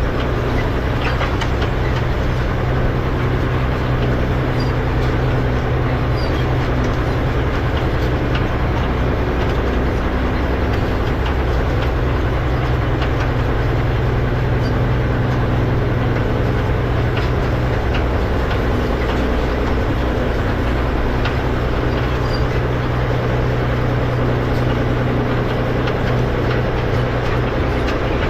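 Tractor engine running steadily while pulling a hay rake through windrows, with light scattered clicks and rattles over the engine note.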